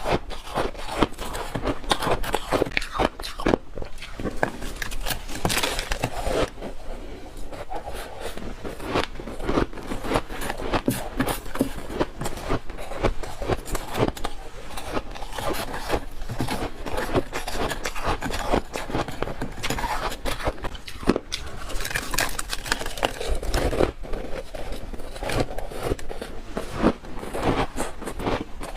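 Freezer frost being bitten and chewed close to the microphone: a dense, continuous run of crisp crunches, crackles and scrapes.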